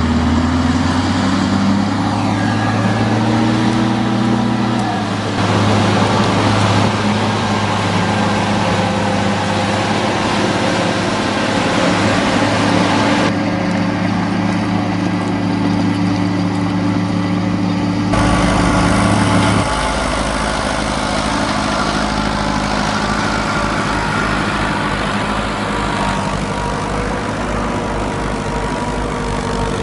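Engines running steadily, with the pitch and tone changing suddenly about 5, 13 and 18 seconds in, as if from one machine to another.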